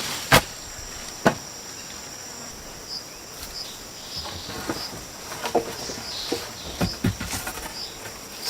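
Rainforest insects droning steadily at a high pitch, with a short high chirp repeating about twice a second through the middle. Scattered sharp knocks and clicks break in, the loudest just after the start and about a second later.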